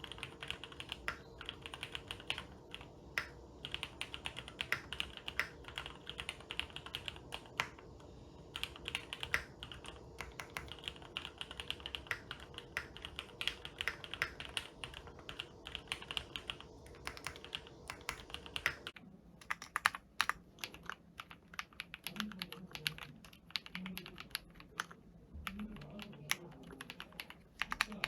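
Typing on an enthusiast custom keyboard: a fast, irregular stream of keystroke clacks. About two-thirds of the way through, the recording cuts to another keyboard or setup, with different background hum under the continuing keystrokes.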